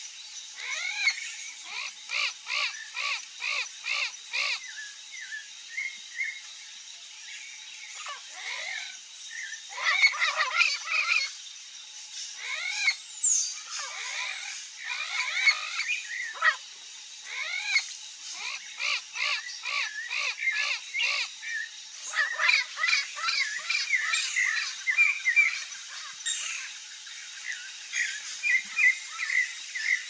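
Wild birds calling: runs of harsh, repeated notes at about two a second, broken by short pauses, with higher chirps between.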